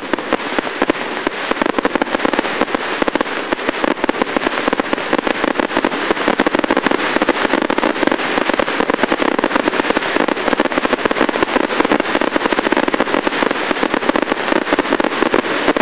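Fireworks display: a dense, unbroken barrage of rapid bangs and crackles, many per second.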